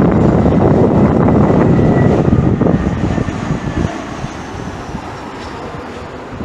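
Batik Air jet airliner passing close on landing: a loud engine roar that fades after about four seconds, leaving a thin high engine whine that falls slightly in pitch.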